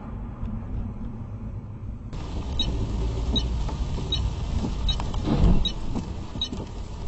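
Car running, heard from inside the cabin as a steady low rumble of engine and road noise. After a change about two seconds in, a light tick repeats about every three-quarters of a second, with a louder swell of noise a little past five seconds.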